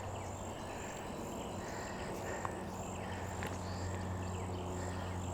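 Outdoor bush ambience: insects chirping steadily and high, with scattered short bird calls, over a steady low hum.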